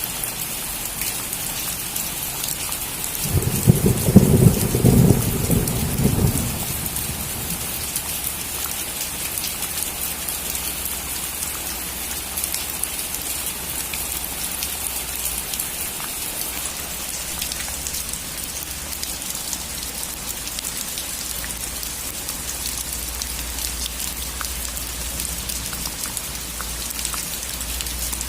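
Steady rain falling on a roof, with one burst of thunder about three seconds in that lasts some three seconds before the rain carries on alone.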